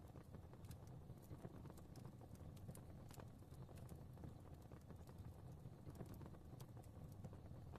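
Faint fireplace fire crackling: irregular small pops and snaps over a low, steady rumble of flames.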